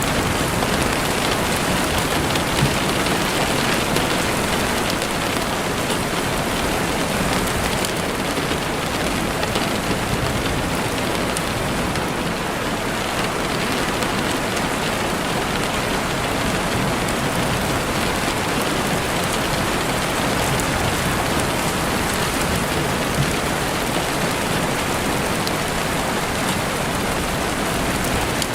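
Steady, dense rain falling through trees, with faint scattered crackles from a campfire underneath.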